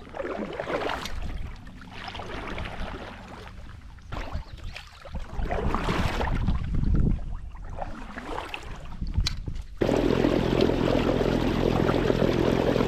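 Water and wind noise around a kayak: irregular whooshing surges that change abruptly, about ten seconds in, to a steadier rushing hiss.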